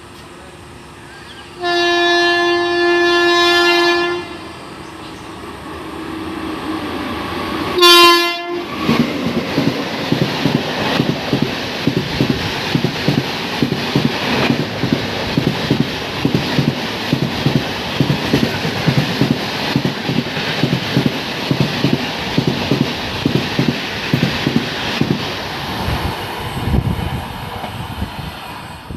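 An Indian Railways train's horn sounds a long blast, then a short one a few seconds later, and the train passes close by with a steady run of wheel clicks over the rail joints.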